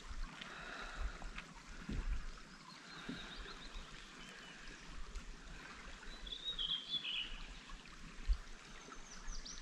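Quiet outdoor ambience with a soft, steady hiss and a few low bumps. A small bird calls briefly about seven seconds in, then starts a quick run of high notes near the end.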